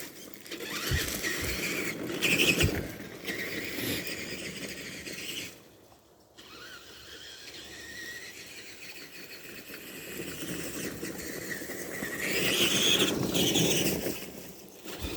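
Tamiya TXT-2 RC monster truck's motor and gear drivetrain whining as it drives over rough ground, with a few knocks from the chassis over bumps early on. The whine drops away briefly about six seconds in, then builds again and is loudest near the end.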